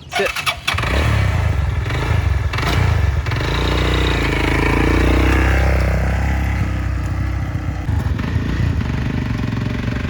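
Motorcycle engine starting about a second in, started in neutral, then running, with a rev that rises and falls around the middle.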